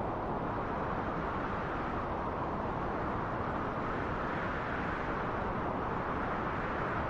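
Steady rushing wind, a deep even hiss that swells gently and brightens a little partway through.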